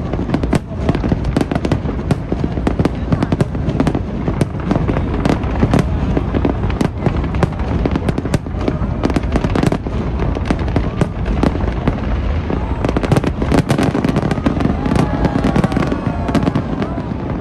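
Fireworks display going off in a dense, continuous barrage of bangs and crackles over a low rumble, with people's voices rising near the end.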